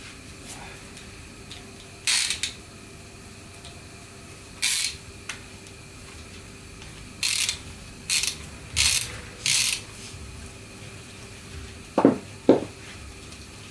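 Mechanical tool work: six short rasping bursts a second or two apart, then two sharp knocks near the end, over a faint steady hum.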